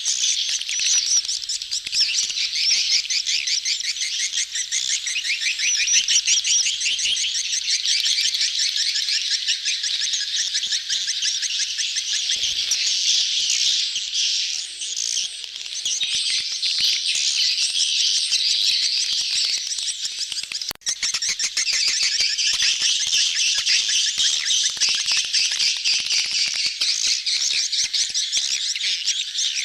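A crowded colony of swiftlets twittering in a dense, unbroken chatter of rapid high chirps, the courting flock call played as a lure to draw swiftlets into a nest house. The chatter breaks off for a moment about two-thirds of the way through, then resumes.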